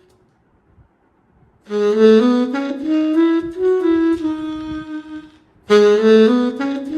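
Sampled VHorns saxophone played from an EWI wind controller. After a brief silence, it plays a phrase of notes stepping upward, pauses, then starts a similar phrase about a second later.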